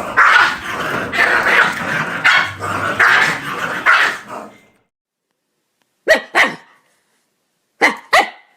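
A loud, dense jumble of sound that cuts off abruptly into silence, then a dog barking in two quick pairs of short, sharp barks about one and a half seconds apart.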